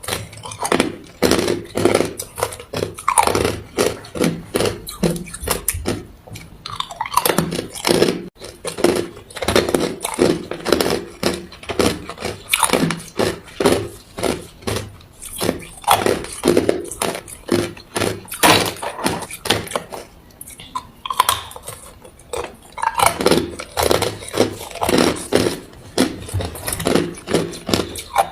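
A person chewing ice: a fast run of crisp crunches as the ice is bitten and ground between the teeth, in spells broken by a couple of short pauses.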